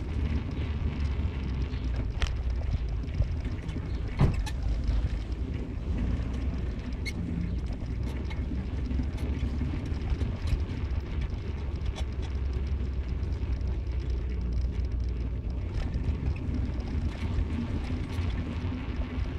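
Car driving: a steady low rumble of road and engine, with scattered short knocks, the loudest about four seconds in.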